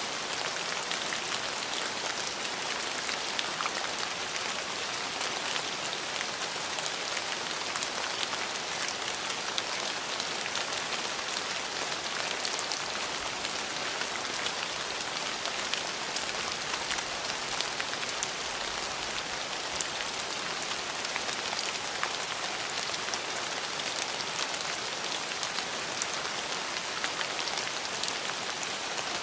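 Steady rain falling, an even hiss of rainfall with many small drop ticks.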